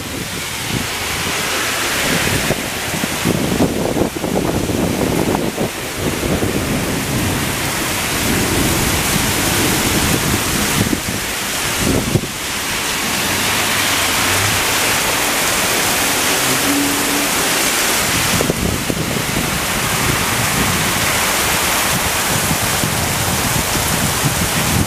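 Torrential thunderstorm rain pouring down on a street, a loud steady hiss, with a low rumble of thunder underneath.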